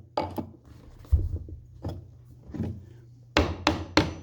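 Hammer tapping an old oak floorboard to drive it into place and seat it tight: a few separate taps, then a quicker run of taps, about three a second, near the end.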